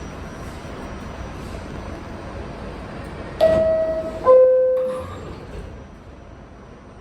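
Two-note falling chime from an R68 subway car's door signal, the first tone about three and a half seconds in and the lower second tone just under a second later, over the steady hum of the train: the signal that the doors are about to close.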